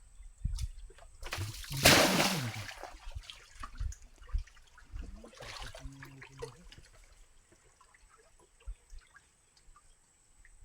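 Shallow muddy pond water splashing and sloshing as it is waded and stirred by hand, with one loud splash about two seconds in, then scattered drips and small splashes that die away.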